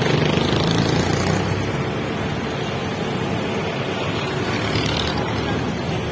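Motor vehicle engine noise: a steady, noisy hum with a low engine tone, a little louder in the first second or two.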